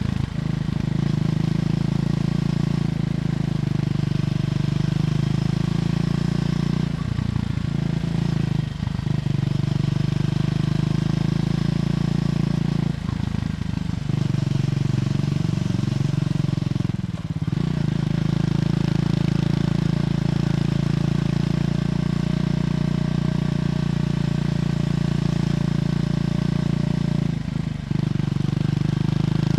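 Triumph Scrambler 400X's single-cylinder engine running through its stock exhaust while the bike is ridden. The note holds steady, with brief breaks about seven, nine, thirteen, seventeen and twenty-eight seconds in, and the pitch falls and rises between about fourteen and seventeen seconds.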